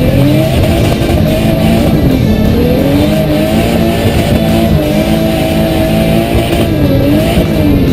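Nissan R32 Skyline's engine revving up and down through a drift, heard from inside the cabin, its pitch rising, holding, then dipping and rising again.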